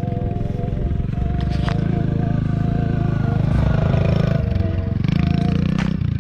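Kawasaki KLX110 dirt bike's small single-cylinder four-stroke engine running steadily while ridden in second gear.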